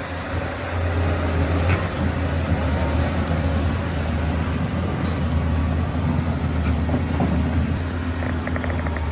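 Diesel engine of heavy earthmoving machinery running steadily with a low hum, with a quick run of light clicks near the end.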